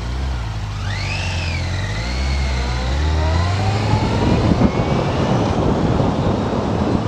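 Motorcycle engine pulling away, its pitch rising as it speeds up, with wind noise building on the microphone as the bike gathers speed.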